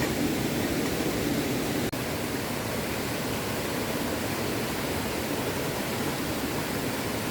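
Small stream running over rocks: a steady rush of flowing water, with a momentary break about two seconds in.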